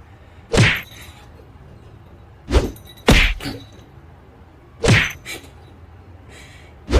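A series of short, sharp knocks or thumps, irregularly spaced, about six in all.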